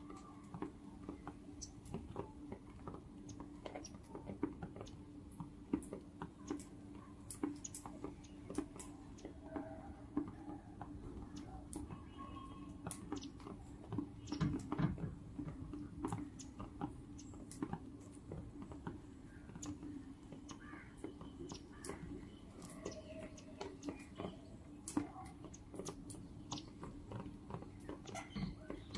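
Parrots and a squirrel feeding on rice and millet: many irregular small clicks and nibbling crunches of beaks and teeth on grain, over a steady low hum.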